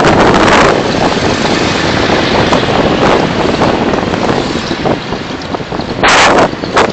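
Loud, steady rush of wind and road noise from a moving vehicle, with two short, louder bursts of noise near the end.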